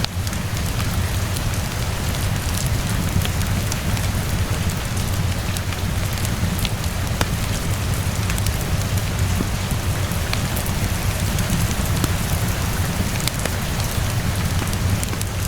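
Steady rain falling, with a deep steady rumble underneath and scattered sharp clicks and pops from a crackling fireplace mixed in.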